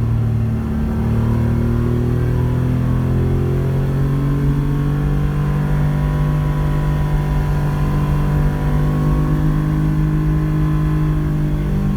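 Porsche 911 rally car's flat-six engine running hard under load. The revs dip briefly a little under a second in, then pull steadily with the pitch rising slowly.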